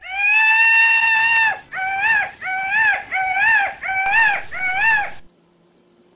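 A high whining sound effect: one long whine of about a second and a half, then five short whines that each rise and fall, about two a second, stopping suddenly near the end.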